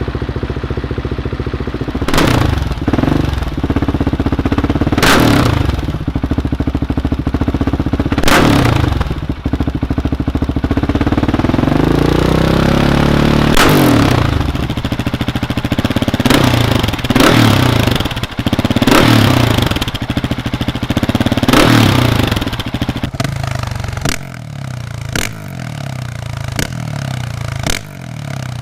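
Husqvarna 701 Supermoto's single-cylinder four-stroke engine, fitted with an aftermarket exhaust, idling and being revved in repeated sharp throttle blips, with one slower build of revs about halfway through, then dropping back to idle.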